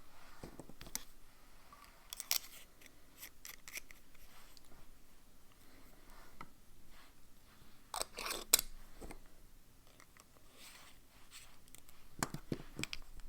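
Small clicks, taps and rustles of things being handled on a desk, coming in short clusters, the loudest about eight seconds in.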